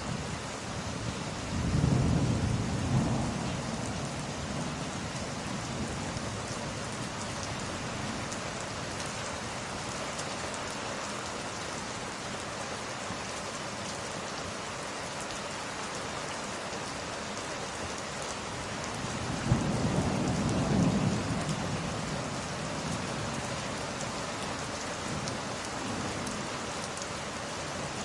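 Steady heavy rain, with two low rolls of thunder, each a few seconds long: one about two seconds in, the other about twenty seconds in.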